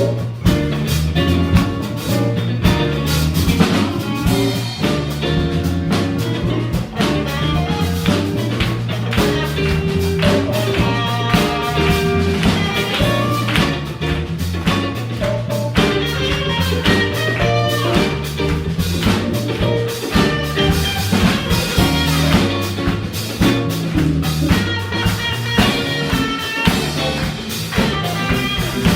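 Live jazz-funk band playing an instrumental: electric guitar, electric bass, keyboards and drum kit over a steady beat.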